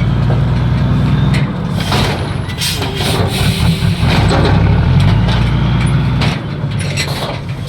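Heavy diesel truck engine running with a low steady drone that shifts pitch a few times. A few short hissing bursts come about two to three seconds in.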